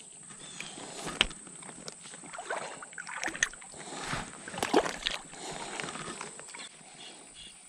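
Creek water splashing and sloshing in irregular bursts, loudest a little before five seconds in, with a sharp click about a second in, as a small caught fish is handled at the water's edge.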